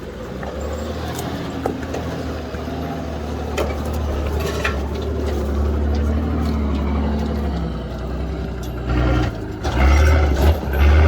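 A four-wheel drive's engine pulls steadily under load as it climbs a rocky track, slowly getting louder. It gets much louder in short bursts of revs near the end, with a few sharp knocks along the way.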